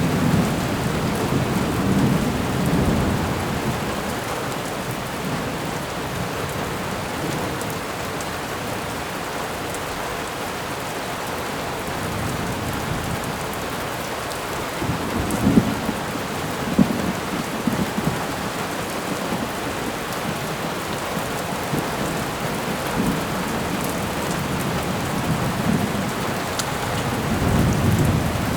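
Thunderstorm ambience: steady heavy rain, with thunder rumbling three times, near the start, around the middle and near the end, the middle one cracking sharply.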